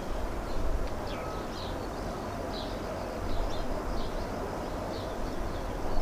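Birds chirping, a string of short high calls about twice a second, over a steady low rumble.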